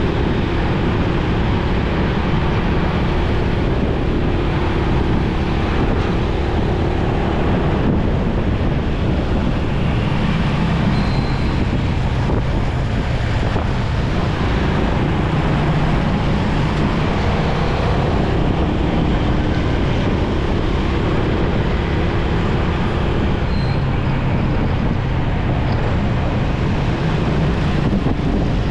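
Motorcycle on the move in road traffic: a steady rush of wind over the microphone with the engine's hum underneath, its pitch shifting as the rider changes speed. Two brief high beeps sound, about 11 and 23 seconds in.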